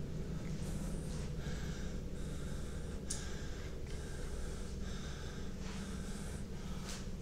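A man breathing heavily and fast through his mouth, in quick in-and-out breaths one after another, over a steady low hum, with a single sharp click about three seconds in.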